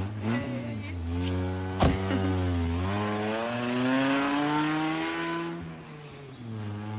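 Car engine running and accelerating, its pitch rising steadily for a few seconds before dropping back, with one sharp click about two seconds in.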